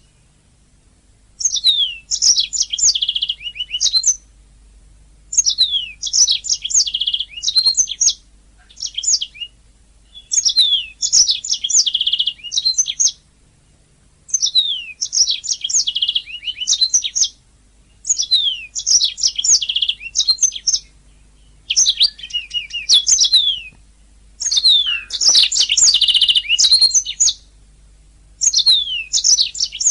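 Domestic canary singing: phrase after phrase of rapid down-slurred notes and rolling trills, each a second or two long with short pauses between.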